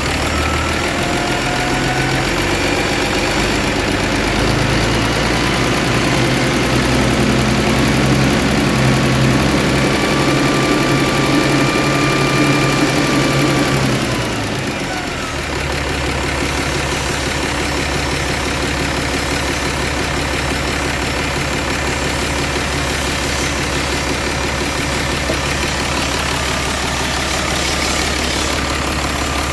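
Mitsubishi 6D22 inline-six diesel engine running, its speed shifting under the throttle, then dropping back about halfway through to a steady lower idle.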